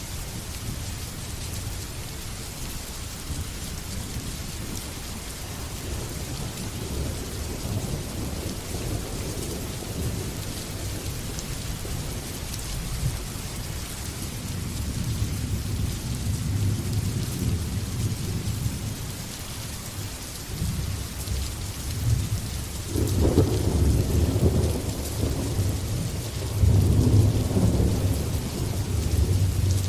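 Steady heavy rain with rolling thunder; the low rumble builds through the second half, with the loudest thunder claps about two-thirds of the way in and again near the end.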